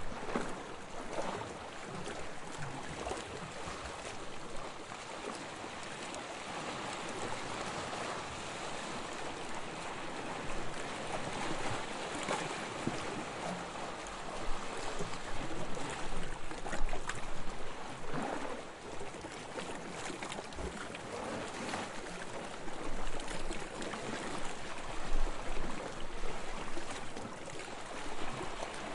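Small, soft waves lapping on a sandy shore: a continuous wash of water with irregular louder surges and splashes.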